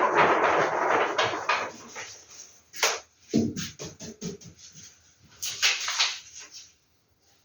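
Paper rustling loudly as vintage movie posters are handled, then dying down to scattered crinkles with a couple of sharp snaps of the paper.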